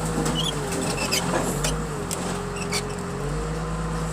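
An engine running steadily at idle, with a faint wavering whine over it and a few short high chirps.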